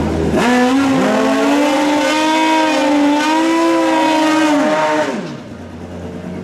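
Drag-racing motorcycle engine revved up sharply and held at high revs for about four and a half seconds, the pitch wavering slightly, then the revs fall away.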